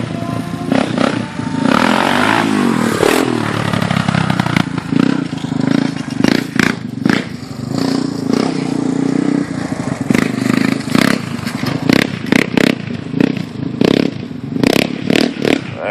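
Yamaha Raptor 350 ATV's single-cylinder four-stroke engine revving up and down, then running on with many short, sharp clattering knocks through the second half.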